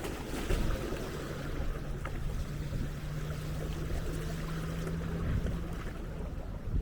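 Seaside ambience with wind buffeting the microphone and a low rumble. A steady low hum starts about a second in and fades out near the end.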